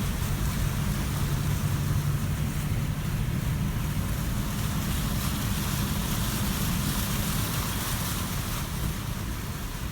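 Engine running steadily, with wind and water noise over it; its low hum eases off about three-quarters of the way through.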